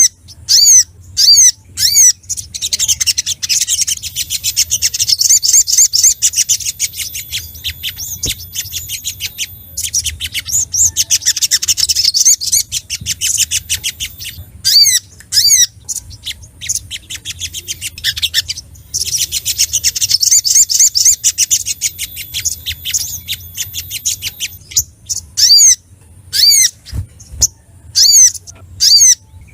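Crimson sunbird (sogok ontong) singing in full, agitated song as a male calling out for a rival. Sharp, high chirps repeat, broken three times by long stretches of rapid, dense twittering.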